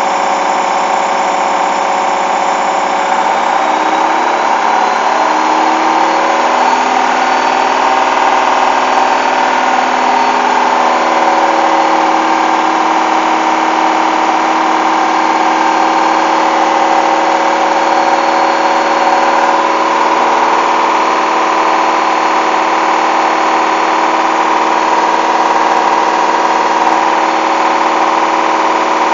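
Hoover washing machine running loudly, its drum and motor whirring with a steady hum; for the first ten seconds or so the motor's pitch shifts as its speed changes, then holds steady, as in the final spin.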